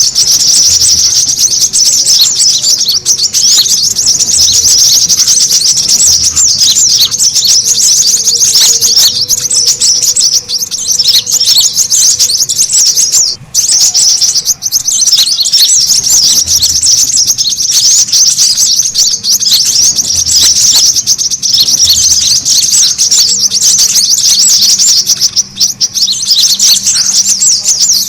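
Brown-throated sunbirds (kolibri kelapa) chattering busily: a dense, unbroken stream of fast, high-pitched twittering chirps from several birds, with a brief gap about halfway through. This is a noisy lure call meant to draw other birds in and set caged birds singing.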